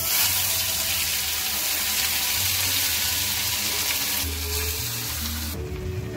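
Onion, garlic and ginger paste sizzling in hot oil with whole spices in a kadhai. The sizzle starts suddenly and eases off about five and a half seconds in.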